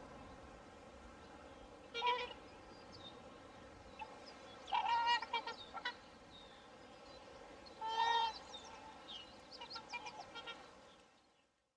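Swans calling: single short calls with many overtones about two, five and eight seconds in, with a cluster of softer calls after the last, over a steady background hiss. The sound fades out near the end.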